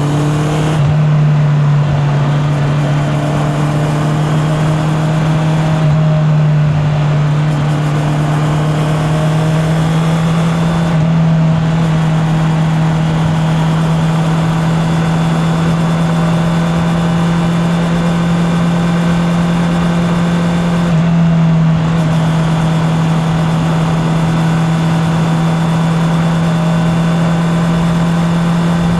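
Honda CB650R inline-four engine running at steady cruising revs under way. Its note settles just after a rise in pitch at the start and holds nearly level, with brief throttle changes about 6, 11 and 22 seconds in. Wind and road noise lie beneath, heard through a mic in the rider's pocket.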